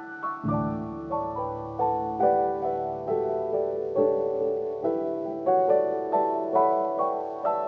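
Soft, slow piano music: notes struck about twice a second and left to ring and fade, with a low bass note coming in about half a second in.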